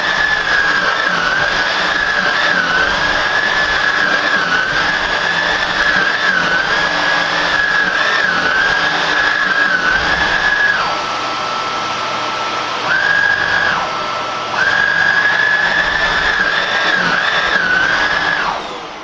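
Hoover WindTunnel Air upright vacuum cleaner running with a steady high whine. Its pitch drops for a couple of seconds twice in the second half. It is switched off near the end and starts to wind down.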